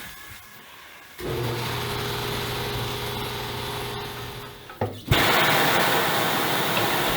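An electric motor on tire-changing equipment starts about a second in and hums steadily at one pitch for about three and a half seconds. It stops with a couple of clicks, and then a loud, even hiss of compressed air begins.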